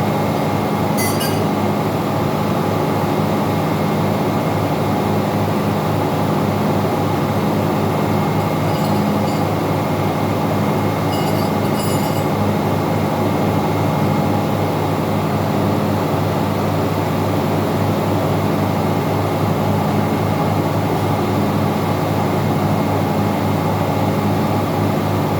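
Loud, steady drone of engine-room machinery with several steady tones and a fast, even pulse low down. A few brief metallic clinks come about a second in and again around the middle.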